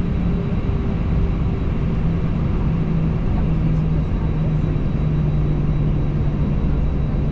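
Steady cabin noise of an Airbus A320 taxiing, heard from inside the cabin: a constant rumble of the engines at low thrust, with a low hum that drifts slightly lower in pitch.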